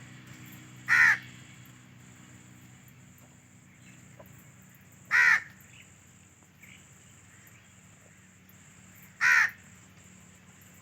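A bird giving three short, harsh calls, each about a third of a second long and spaced about four seconds apart.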